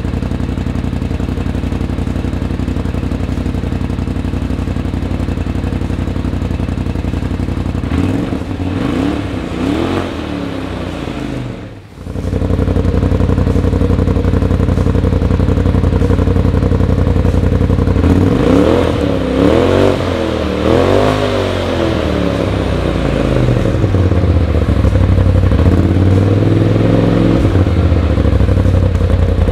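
Side-by-side UTV engine running through an S&S PowerTune XTO stainless-steel muffler, idling steadily and blipped up in short revs. After a brief break about twelve seconds in, it idles louder, with a few more quick revs past the middle.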